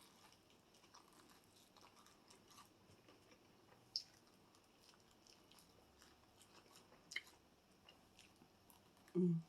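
A person chewing fried chicken wings, faint and close, with a few crisp crunchy clicks about four and seven seconds in. A short, louder low sound comes near the end.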